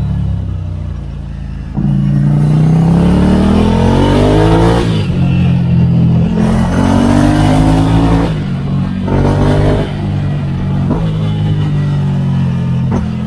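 2016 Ducati Scrambler Icon's 803 cc air-cooled L-twin engine through a Termignoni exhaust, pulling hard. The throttle opens about two seconds in, and the engine note rises and drops with each of three upshifts. It then settles to a steadier cruise for the last few seconds.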